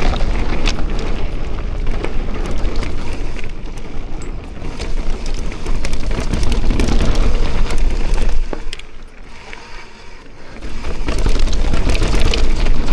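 Wind rushing over the microphone and mountain bike tyres rumbling and rattling over a dirt trail at speed on a descent, with scattered clicks and knocks. It eases off for a couple of seconds past the middle, then picks up again.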